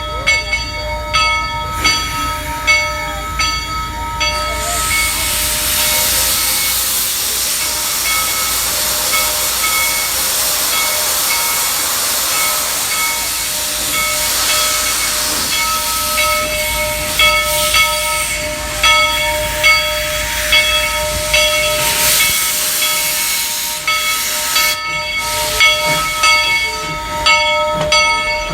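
Georgetown Loop 2-6-2 steam locomotive No. 12 letting off steam: a loud hiss starts about five seconds in and dies away a few seconds before the end. Under it a ringing at several pitches repeats about twice a second.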